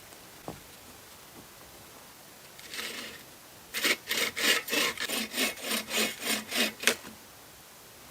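Quick back-and-forth scraping strokes, about a dozen at roughly four a second, after a shorter single scrape.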